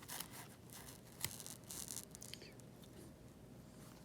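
Faint rustling and scraping of small parts and tools being handled at a repair bench, with a light click about a second in.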